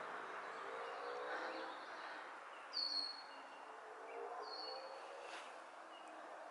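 A bird calling twice, about three and four and a half seconds in: each call is a short, high whistled note that slides down in pitch. Beneath it is a soft, steady rustling hiss.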